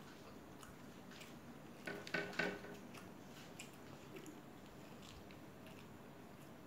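A person chewing a fried pakoda fritter: soft, wet mouth sounds and small clicks, with a louder bite about two seconds in.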